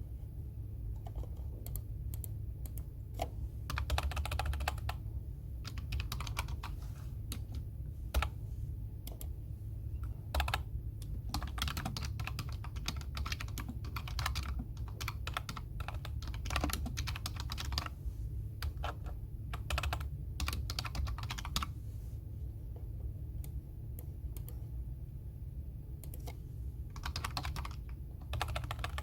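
Typing on a computer keyboard: quick runs of key clicks in bursts, with pauses of one to several seconds between them, over a steady low hum.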